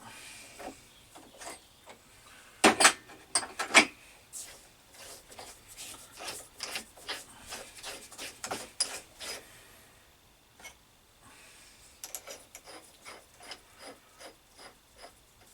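Hand work at a metal lathe chuck as a small brass nut is taken out and turned around: a few sharp metal knocks about three seconds in, then a run of short scraping strokes, and lighter clicks near the end.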